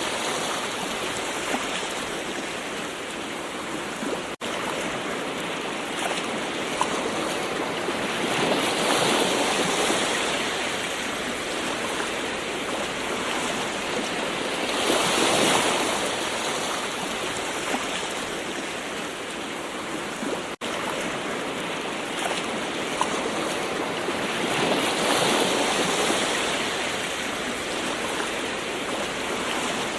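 Gentle ocean waves washing on a shore: a continuous rush of surf that swells and falls back three times, with two momentary dropouts in the sound.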